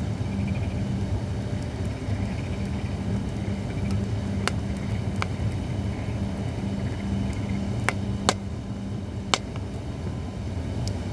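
Holly-wood campfire burning with a low steady rumble, broken by about six sharp crackling pops in the second half.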